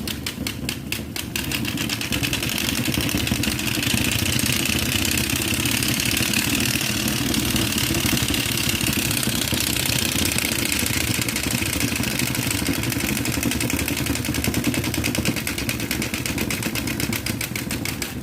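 Royal Enfield motorcycle engine running steadily. It gets louder about two seconds in and eases off again near the end.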